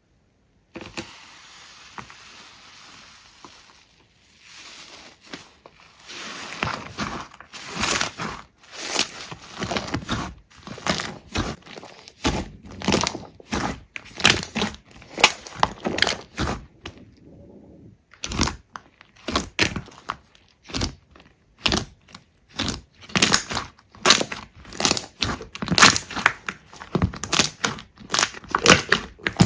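Big slime being squeezed, poked and stretched by hands, giving a rapid, irregular string of short sticky squishes and pops. The sounds begin about six seconds in and pause briefly past the middle.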